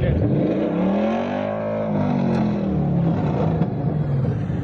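A car engine revving: its pitch climbs for about a second and a half, then falls away again.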